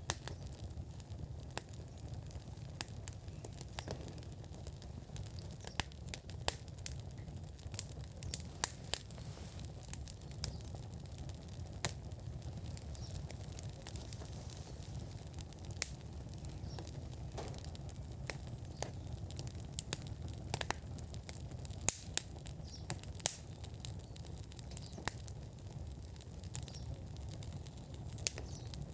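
Wood fire burning in an outdoor fire pit, with irregular sharp crackles and pops over a steady low rumble.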